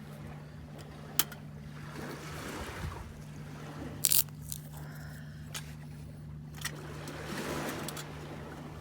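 Small waves washing on a sandy shore, swelling twice, over a steady low engine hum from a boat on the water. A few sharp clinks of metal camp cookware, the loudest about four seconds in.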